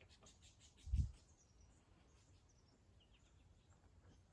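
Faint bird chirping: a quick run of short high notes in the first second and a half, and a few more about three seconds in. There is a low thump about a second in.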